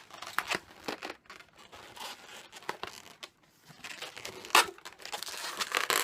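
Latex modelling balloon being handled and twisted by hand: irregular rubbing and crinkling, with a louder sharp rub about four and a half seconds in.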